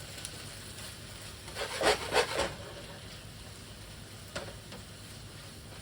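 Sliced chicken and onions sizzling in a hot frying pan, with a utensil stirring and scraping against the pan in a short run of strokes about two seconds in and once more a couple of seconds later.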